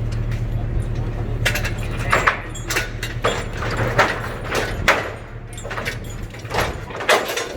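An idling vehicle engine makes a steady low hum that cuts out about six seconds in, while sharp metal clanks and knocks come every half second to a second.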